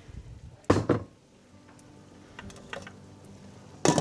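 Cookware and kitchen items being handled at the stove: two sharp clattering knocks, one about a second in and one near the end, with a few light clicks between.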